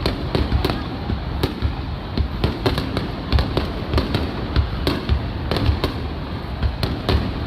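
Aerial fireworks bursting in quick succession, many sharp bangs and crackles a second over a continuous low rumble of echoing explosions.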